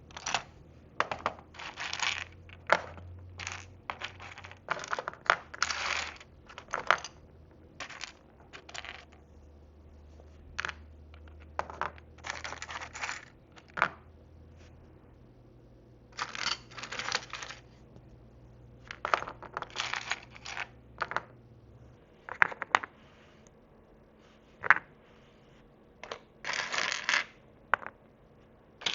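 Tiny miniature dishes and food pieces clicking and clattering against each other as they are picked up, sorted and set down, in irregular bursts of small sharp taps.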